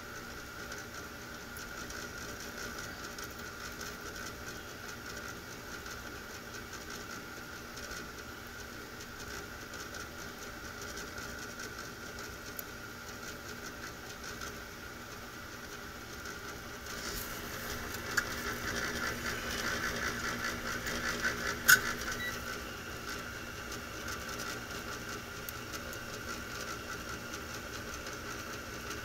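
Steady mechanical hum of a gas pack heating unit's motor running. About two-thirds of the way through, several seconds of louder clattering handling noise with two sharp clicks.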